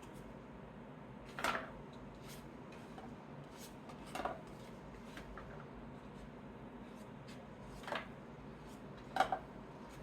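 Trading cards being handled and sorted by hand: short, sharp taps and clicks, four louder ones spread unevenly and fainter ones between, over a faint steady hiss.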